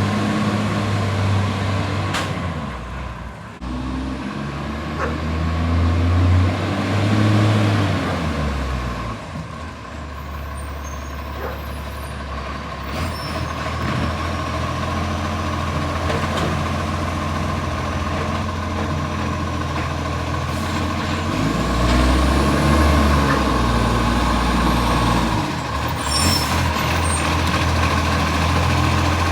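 Garbage truck diesel engine running with a leaking exhaust, revving up twice and settling back, over a steady high whine. A short air-brake hiss comes near the end.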